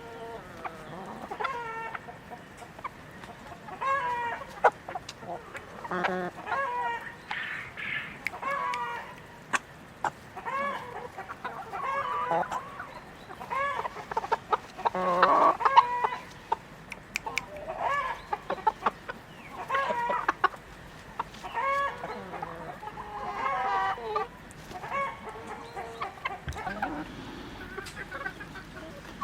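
A flock of chickens clucking and calling, with many short overlapping calls one after another and scattered light clicks, perhaps pecking.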